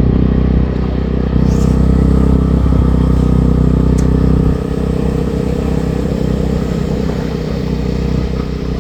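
Motor vehicle engine running steadily while driving along a road. The low engine sound drops away about halfway through.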